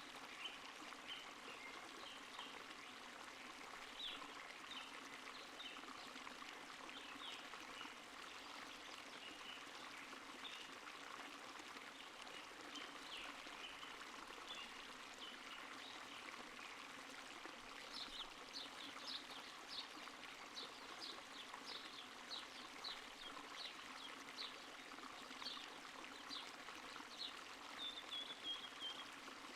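A stream flowing steadily, with a bird chirping in short high notes over it, more often in the second half, ending in a short falling trill near the end.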